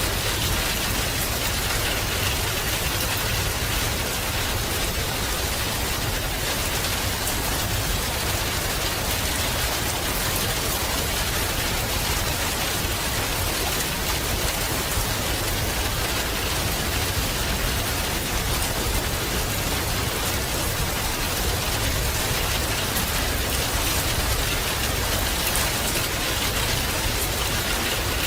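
Steady rain falling and pattering on a surface, an even hiss with a low rumble beneath it.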